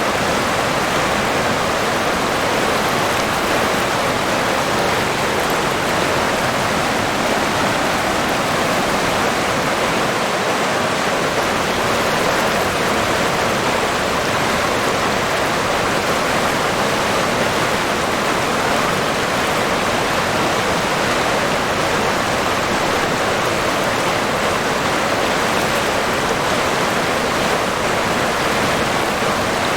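River water rushing and flowing in a steady, unbroken stream.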